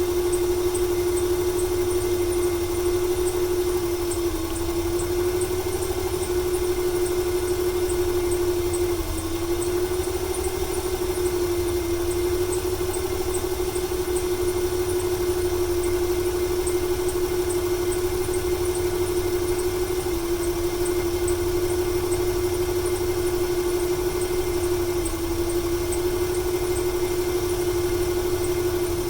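Ford 300 cubic-inch (4.9 L) inline-six idling with a misfire, an engine with over 400,000 miles on it. A steady whine sits over the idle and dips briefly a few times, with a faint fast ticking above it; the owner wonders whether the misfire is a fuel or a timing issue.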